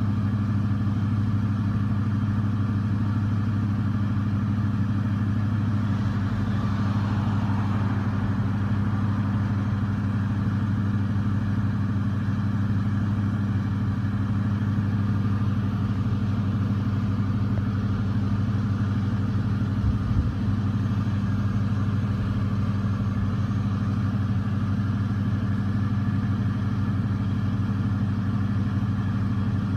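High-mileage 1999 Ford F-150 engine idling steadily, with a brief low bump about two-thirds of the way through.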